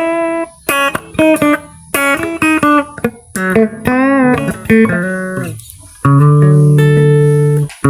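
Plucked guitar playing single notes and chords, one note bent with vibrato a little past the middle, then a chord held from about six seconds in.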